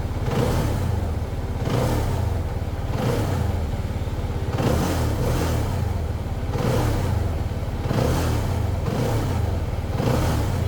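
CFMoto 300SR single-cylinder engine, stationary, being revved in short throttle blips about once every second or so, each one rising and dropping back.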